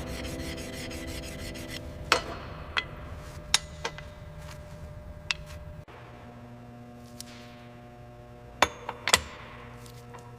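Hand tools working on a helicopter engine during reassembly: light rubbing and scraping, with scattered sharp metallic clicks and knocks, two close together near the end, over a steady low hum.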